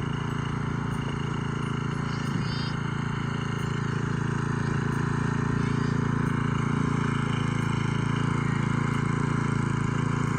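A vehicle engine running steadily at an even speed, its low hum unchanging.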